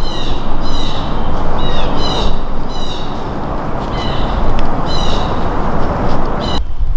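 A bird calling over and over in short, sharp notes, about two calls a second, over loud steady noise, until the sound cuts off suddenly near the end.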